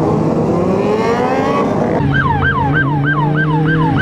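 Police car siren in a slow rising wail that switches about halfway through to a fast yelp, about four sweeps a second, over a running car engine.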